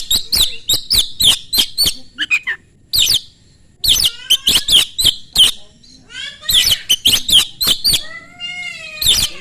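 Oriental magpie-robin (kacer) in full, fast song: quick runs of sharp, high, clipped notes, with a short break about three and a half seconds in and a few slurred, arching whistles near the end.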